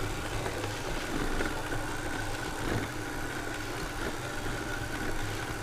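ILIFE V7 robot vacuum running, with a steady motor and brush hum.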